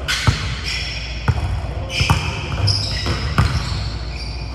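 Basketballs bouncing on a hardwood gym floor during pickup play: irregular thuds, with short high sneaker squeaks between them.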